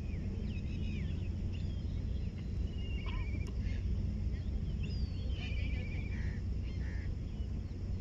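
Wild birds chirping and calling, with two short rapid trills about three and five and a half seconds in, over a steady low rumble.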